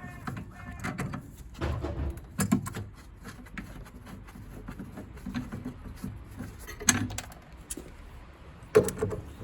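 Irregular clicks, knocks and light clatter of metal boiler parts and fittings being handled and pulled loose, with a few sharper knocks, the loudest near the end.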